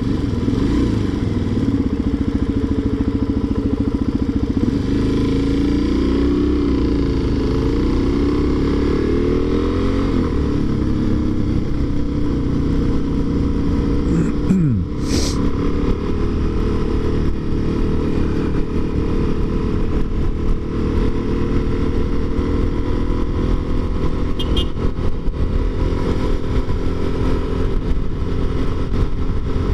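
Motorcycle engine running on the road, its pitch rising and falling as the bike speeds up and slows. A brief loud rush with a falling tone comes about halfway through.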